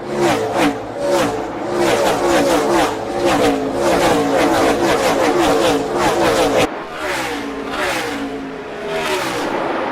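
NASCAR Cup cars' V8 engines racing, the pitch repeatedly rising and dropping as cars rev and pass, with an abrupt cut to another clip about two-thirds of the way through.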